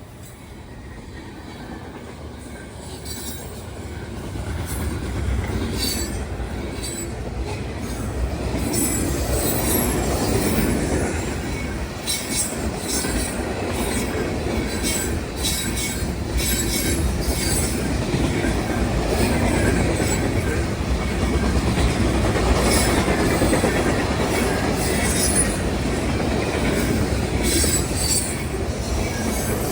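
Norfolk Southern freight train rolling past a grade crossing: rumble and wheel clatter on the rails with repeated high wheel squeals, growing louder over the first ten seconds and then holding steady.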